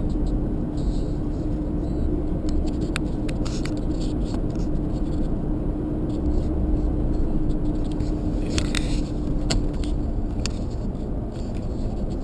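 Road noise inside a moving car: a steady low rumble with a steady hum that fades out near the end, and a few light clicks and ticks scattered through.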